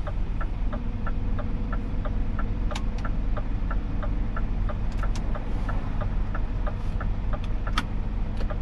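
Scania truck's diesel engine idling, heard from the cab, with the indicator relay ticking steadily at about three clicks a second.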